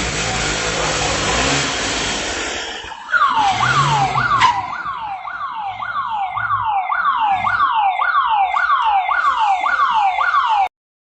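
Loud street noise with a vehicle engine. About three seconds in, an electronic siren starts with a tone sweeping downward over and over, roughly one and a half sweeps a second. The sound cuts off suddenly near the end.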